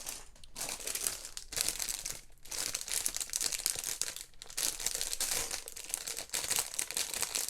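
Plastic Lego parts bags crinkling as they are handled and rummaged through, in a series of irregular bursts with short pauses between.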